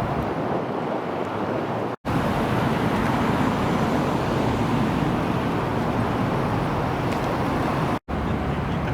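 Car engines and traffic, a steady dense rumble with no single engine note standing out, broken by two brief dropouts about two seconds in and near the end.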